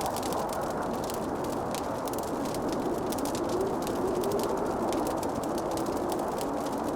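Wood fire crackling: a dense run of small snaps and pops over a steady low rushing noise, with a faint wavering moan in the second half.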